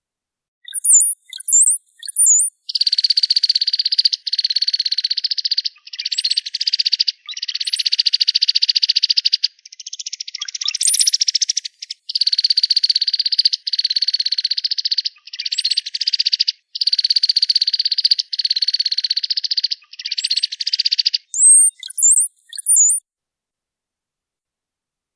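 Cowbird calling: a run of about eleven buzzy rattling trills, each a second or so long and almost back to back, framed by thin, very high whistles with quick pitch sweeps near the start and again near the end.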